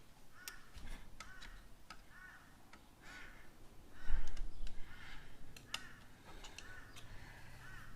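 A crow cawing repeatedly, about ten short calls. Over it come sharp clicks and a louder knock about four seconds in, from hand tools on the fork leg.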